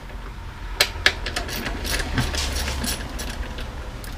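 Hands working on drum parts: two sharp clicks or knocks close together about a second in, then lighter scattered clicks, over a steady low hum.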